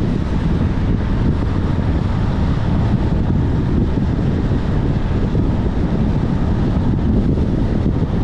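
Steady low rumble of a car on the move, road and wind noise, with wind buffeting the microphone.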